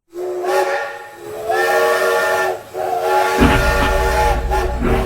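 Train whistle sounding a chord of several notes in three blasts, the last one the longest, with some hiss. A low running rumble of the train sets in about three and a half seconds in, under the last blast.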